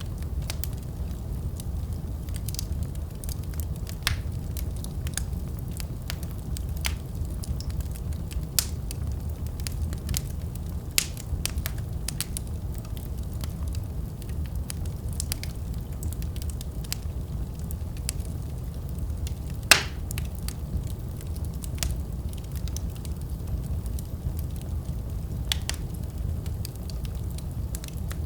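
Wood fire crackling in a fireplace: a steady low rumble with scattered sharp pops, the loudest about twenty seconds in.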